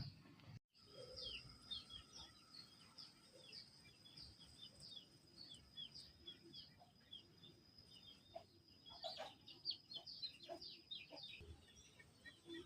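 Faint chirping of small birds: many quick, short, falling chirps in a row, busiest about two-thirds of the way through, over a thin steady high whine.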